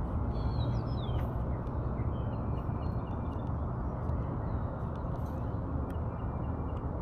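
Steady low outdoor rumble, with a few faint bird chirps about a second in.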